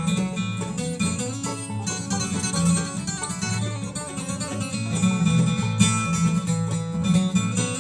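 Bluegrass band playing an instrumental break: rapid banjo and guitar picking over a steady walking bass line.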